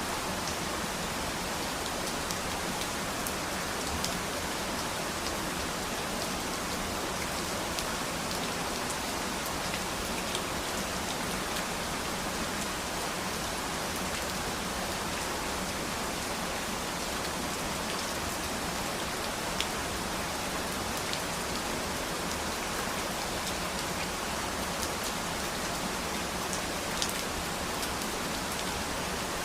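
Steady rain falling, an even hiss with scattered drop ticks, a few a little louder than the rest.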